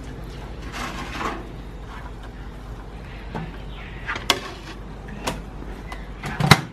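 Kitchen handling sounds: a few sharp clicks and knocks, like a cupboard or appliance door being opened and shut, the loudest near the end, over a faint steady low hum.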